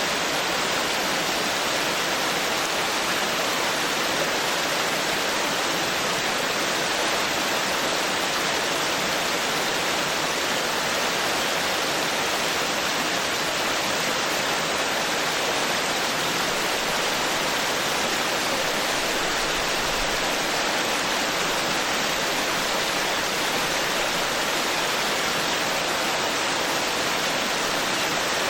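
Forest stream flowing: a steady, unbroken rush of water.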